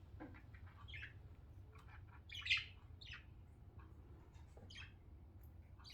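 Pet budgerigars chirping: short, faint, scattered chirps, one louder chirp about two and a half seconds in.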